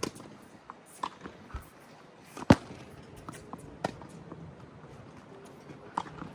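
Tennis rally: a tennis ball struck by rackets and bouncing on the court, a few sharp pops, the loudest about two and a half seconds in.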